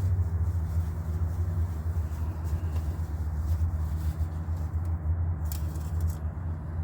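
A vehicle engine idling steadily, a low even hum, with a few faint clicks about five seconds in.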